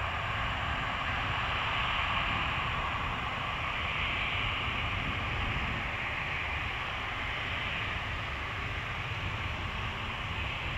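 Steady roar of jet airliner engines, swelling slightly a few seconds in, over wind rumbling on the microphone.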